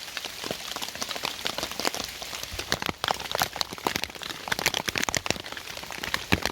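Steady rain, with many sharp, close drops pattering on a tarp worn as a raincoat.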